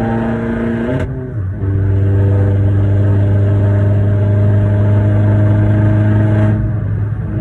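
Turbocharged Corsa engine through a decat straight-pipe Cobra exhaust, running loud at a steady engine speed. About a second in the note dips briefly with a sharp crack, and a fainter crack comes near the end.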